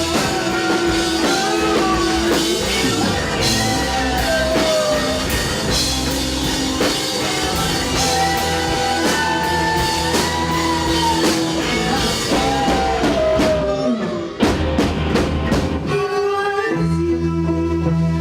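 Rock band music with drum kit and guitars under a gliding lead melody; about fourteen seconds in it breaks with a few sharp drum hits and gives way to steady held chords.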